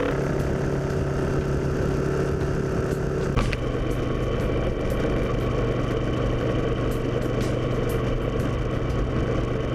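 Moto Guzzi Griso's V-twin engine running steadily under road and wind noise. About three and a half seconds in there is a click and the engine note drops a little.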